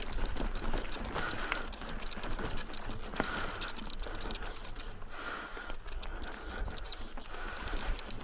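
Mountain bike rolling over a rough dirt trail: a continuous clatter of small clicks and knocks from the bike.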